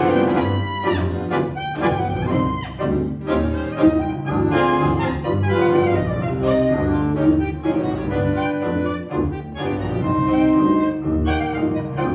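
A tango-klezmer quartet of clarinet, bandoneon, piano and double bass playing a tango live, with sustained melodic notes over a walking bass line.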